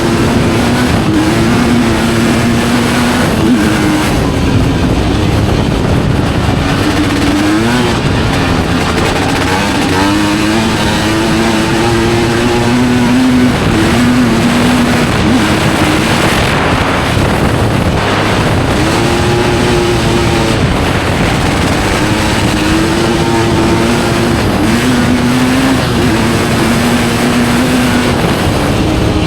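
Studded-tyre ice-racing motorcycle engines running hard. The engine note climbs and drops again and again as the bikes accelerate, shift and back off.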